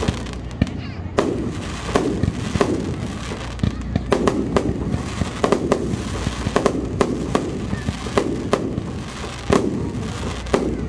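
Fireworks display heard up close: shells bursting one after another, a steady string of sharp bangs, each trailing off in an echo, coming thicker from about four seconds in.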